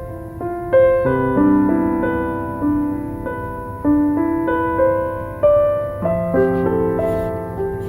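Gentle piano music: single notes and chords struck about every half second, each ringing out and fading.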